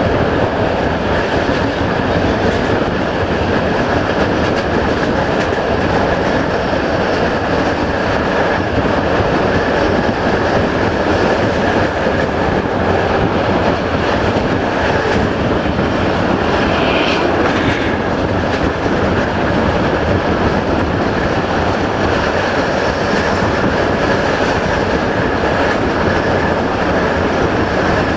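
Train running on the rails: a steady, even rumble of wheels on track, with a brief higher-pitched note about seventeen seconds in.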